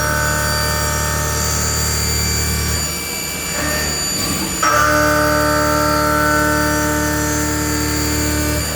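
CNC turn-mill centre's live-tool milling cutter cutting metal: a steady multi-tone cutting whine with a low hum. It stops about three seconds in and starts again sharply a couple of seconds later as the next pass engages.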